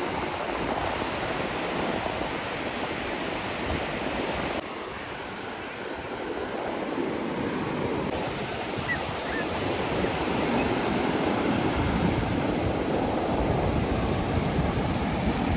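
Ocean surf washing onto a beach, a steady rush of breaking waves that drops abruptly in level about four and a half seconds in and swells again later. Wind rumbles on the microphone in the last few seconds.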